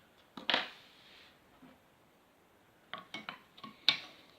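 Light metallic clicks and clinks from hands working at a brass model steam plant while its burner is lit. There is one click with a short hissing tail about half a second in, then a quick cluster of clicks near the end, the last the loudest.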